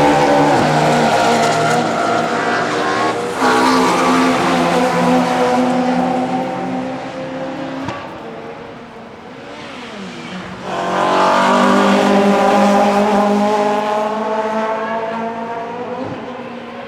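Classic DTM touring car race engines running at racing speed past the grandstand. One passage starts loud and fades away. About ten and a half seconds in, another car comes in abruptly loud, then fades again.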